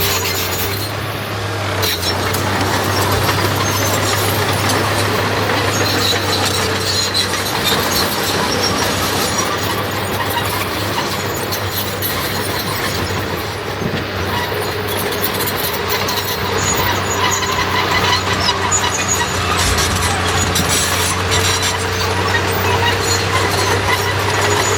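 Komatsu D21 crawler bulldozer's diesel engine running steadily under work, with intermittent squealing from its tracks.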